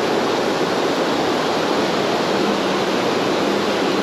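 Steady rushing of river water flowing fast, a constant hiss.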